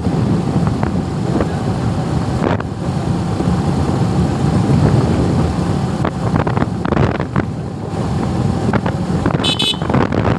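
Suzuki Gixxer single-cylinder motorcycle engine running under way, with wind buffeting the microphone. A brief high-pitched tone sounds near the end.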